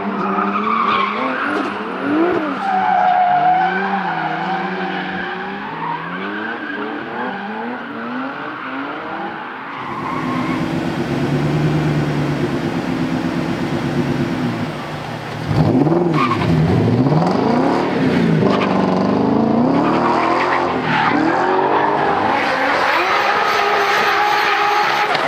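Drift cars at high revs, engine pitch rising and falling as they slide, with tyres squealing. The sound changes abruptly about ten seconds in and again near sixteen seconds.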